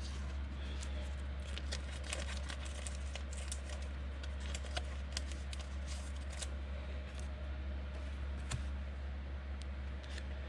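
Football trading cards being handled and flicked one past another, a run of light irregular clicks and slides. A steady low hum lies underneath.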